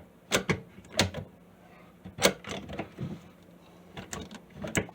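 Sharp clicks and clacks of a sink's pop-up drain linkage being handled and worked under the basin, about seven separate knocks at uneven intervals, the loudest a little over two seconds in.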